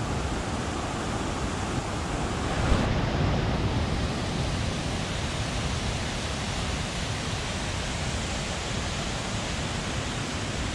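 Mountain stream rushing: a steady, even hiss of running water, with one faint tick a little under three seconds in.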